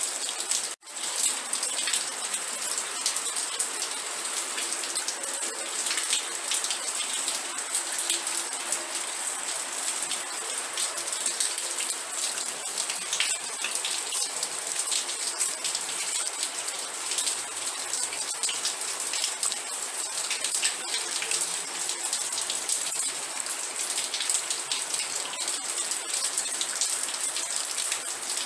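Steady rain with many separate drop impacts heard close by. The sound cuts out for an instant just under a second in.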